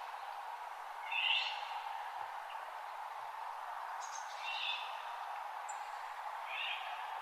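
Birds calling at dawn: three short chirps, about one to two seconds apart, over a steady background hiss.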